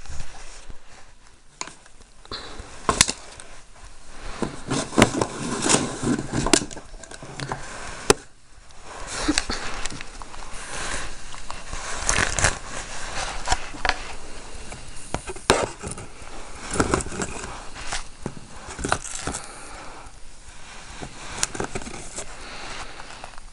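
Irregular clicks, knocks and scraping: objects being handled and moved close to the microphone.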